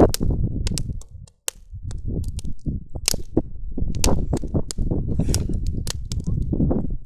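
Wood fire crackling close by, with many sharp irregular pops and snaps over a steady low rumble. The sound cuts out briefly about a second in.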